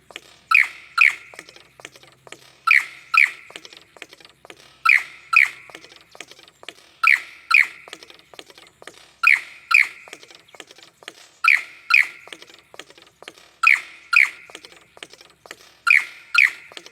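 A bird calling: a sharp two-note call, the notes half a second apart and each dropping slightly in pitch, repeated regularly about every two seconds, eight times.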